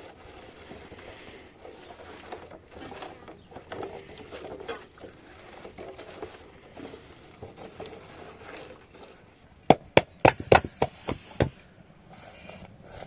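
Faint scattered handling noises, then about ten seconds in a quick cluster of sharp knocks and cracks with a short burst of high hiss among them.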